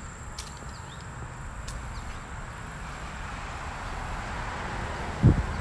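Outdoor ambience: a steady, thin, high-pitched insect drone over a low rumble, with one loud thump near the end.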